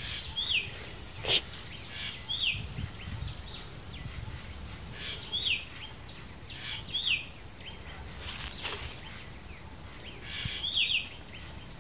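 A bird repeating a short, high falling call every second or two against outdoor background noise, with a couple of sharp clicks, one about a second in and one near the end.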